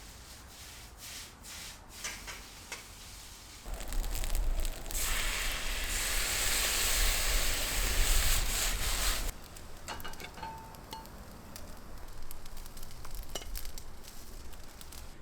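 Fried rice sizzling in a pan over a wood fire, with scattered clicks. The sizzle turns much louder about four seconds in and drops back about nine seconds in.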